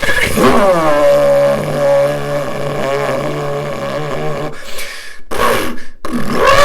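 A person vocally imitating a supercar exhaust. It opens with a falling rev that settles into a steady, buzzing drone for about four seconds, then come a couple of short bursts and another rev near the end.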